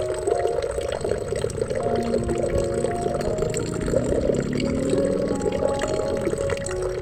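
Running water flowing steadily, with soft held musical notes that shift in pitch every second or two.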